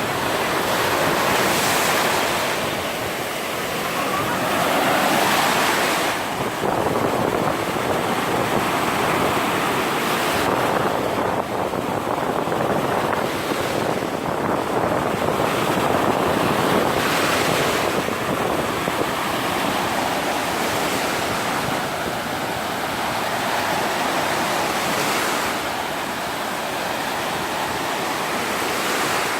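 Black Sea surf breaking and washing up a sandy beach, a steady rush of water that swells and eases every few seconds as waves come in. Wind buffets the microphone.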